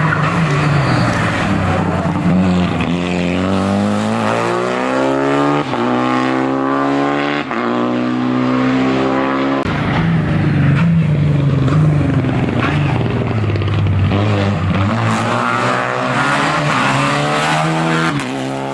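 Hillclimb race car's engine accelerating hard through the gears, its pitch climbing in long pulls and dropping sharply at each gear change, several times over.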